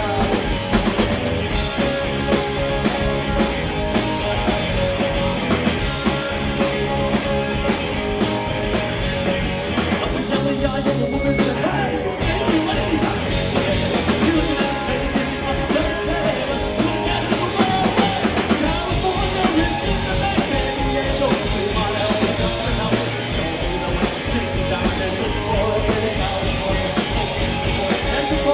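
Live rock band playing loud full-band music: drum kit and guitars, with dense, steady playing throughout.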